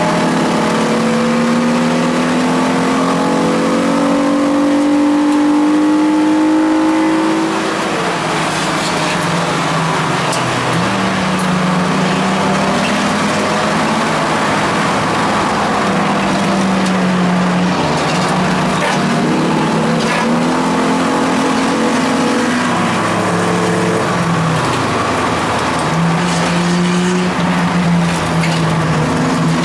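Ford Contour race car's engine heard from inside the cabin, revving higher under acceleration for the first several seconds and dropping off sharply about seven seconds in, then holding a steady note with a few shifts in pitch, over constant road and wind noise.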